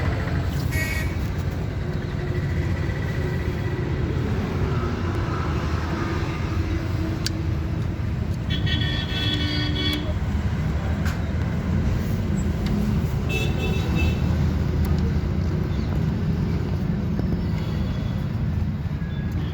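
Steady road-traffic rumble, with vehicle horns tooting briefly about a second in, for longer around the middle, and once more a few seconds later.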